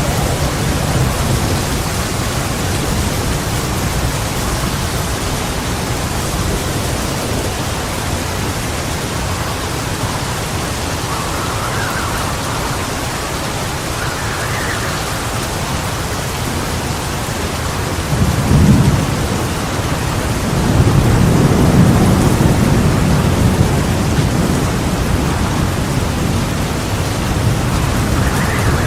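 Heavy rain falls steadily in a thunderstorm. About two-thirds of the way through comes a short, loud clap of thunder, followed soon after by a longer rolling rumble lasting a few seconds.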